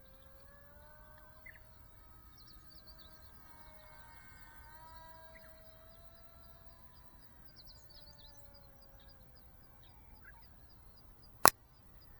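Faint whine of a small RC plane's brushless motor and propeller, its pitch drifting up and down as the plane flies, with birds chirping. One sharp, loud click comes near the end.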